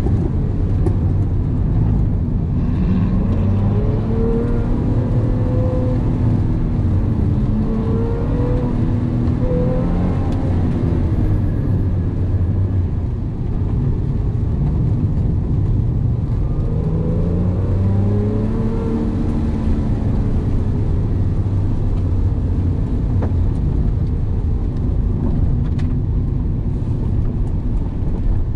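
Porsche 911 (997) flat-six engine heard from inside the cabin at track speed, its pitch rising and falling as the driver accelerates, brakes and shifts, over a steady bed of road and tyre noise.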